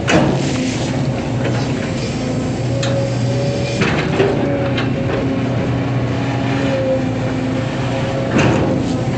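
Hydraulic excavator's diesel engine running steadily, its note rising and falling slightly under load, with a series of sharp clunks and knocks from the working machine, the loudest right at the start and another near the end.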